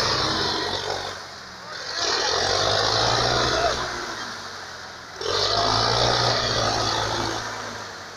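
Diesel tractor engines revving hard under heavy load in three surges, each rising quickly and then dying away, as they strain to pull a stuck vehicle free.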